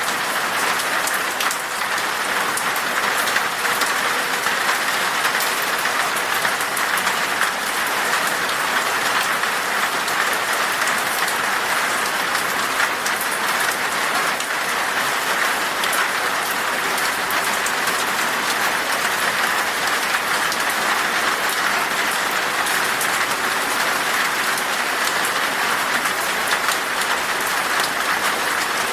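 Steady rain falling in a forest, an even patter of many drops with no let-up.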